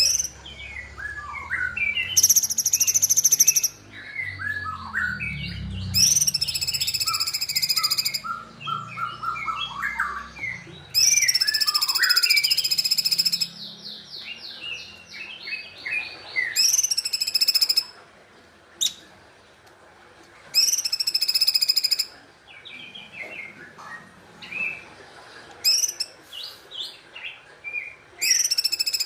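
Cungkok songbird singing vigorously: loud, high trilling phrases of a second or two, repeated about half a dozen times, with quick lower chirping notes between them.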